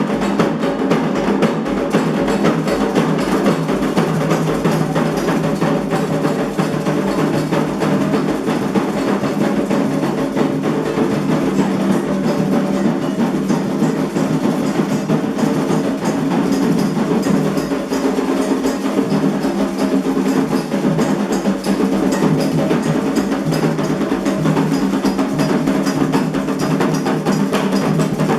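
Candomblé ritual percussion: atabaque hand drums played with a bell or wood-block-like clicking part, a fast, unbroken rhythm at a steady level.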